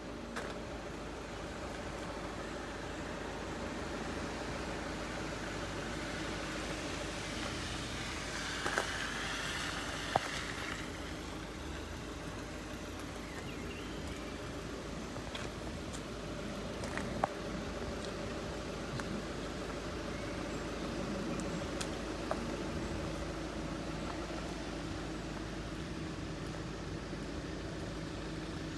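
Steady hum of road vehicles idling, with a few faint clicks.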